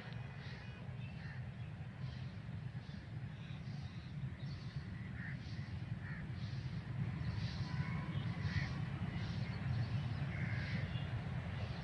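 Birds chirping, short calls repeated about once or twice a second, over a steady low rumble.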